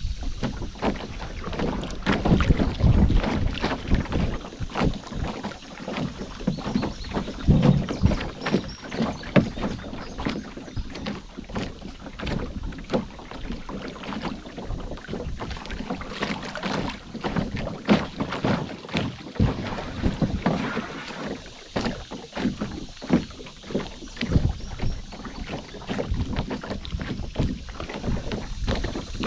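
Canoe being paddled: paddle strokes swishing and splashing in the water, with frequent irregular knocks and thumps, and some wind on the microphone.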